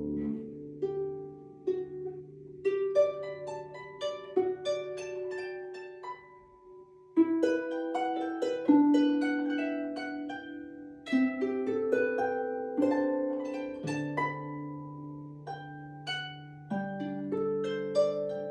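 Solo harp playing single plucked notes and small clusters that ring on and fade, with a brief near pause about two-thirds of the way in before the notes pick up again.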